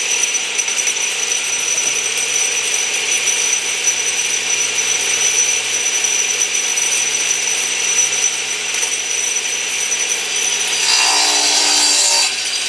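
A woodworking power tool running steadily, with a constant high whine over a hiss. About eleven seconds in it grows louder and rougher for a second or so, as when cutting into wood, then stops abruptly.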